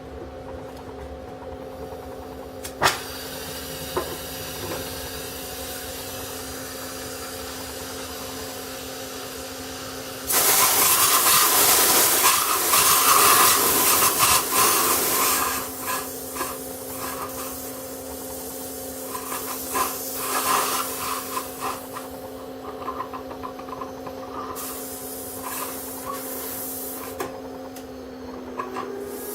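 Oxyhydrogen (HHO) welding station running with a steady hum, then about ten seconds in the torch flame starts with a sudden loud hiss that softens after a few seconds into an uneven, sputtering hiss. A sharp click comes near the start.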